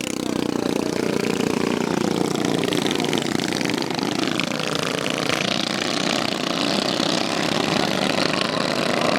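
Small minibike engine running loudly, its pitch dropping off about halfway through and then climbing back up as it is revved again.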